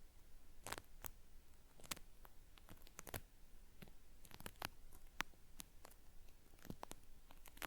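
Cotton swab scraping in an ear on a binaural recording, giving faint, irregular crackles and scratches, several a second, with a peeling, crackly quality.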